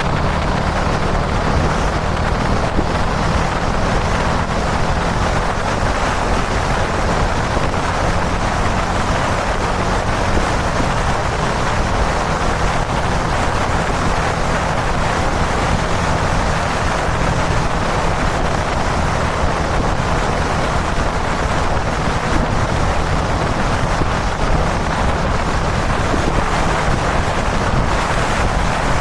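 Kawasaki Dominar 400 motorcycle's single-cylinder engine running steadily at expressway cruising speed, under heavy wind rush on the helmet or bike-mounted microphone.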